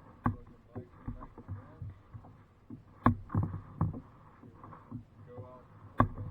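Kayak paddling: a sharp knock with smaller knocks and water sounds after it, about every three seconds, three times.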